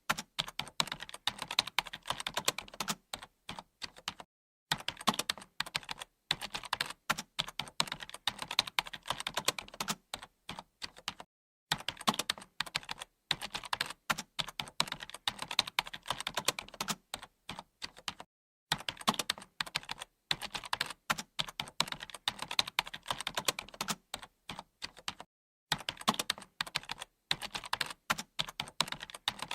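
Computer keyboard typing: fast runs of key clicks, broken by brief pauses every few seconds.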